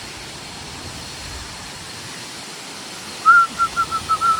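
Steady outdoor hiss, then about three seconds in a bird starts a quick run of short, clear notes, several a second.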